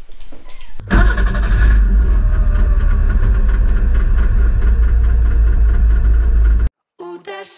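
Trabant 601's two-cylinder two-stroke engine running loudly and steadily, coming in suddenly about a second in and cutting off abruptly near the end.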